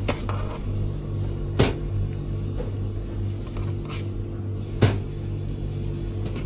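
A handful of sharp clacks of kitchen utensils and containers being handled, about five in all, over a steady low hum.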